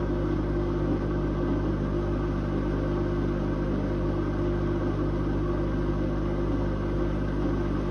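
Whirlpool Indiana 1400 washing machine spinning steadily at high speed: an even motor hum and drum rumble that holds one pitch and level.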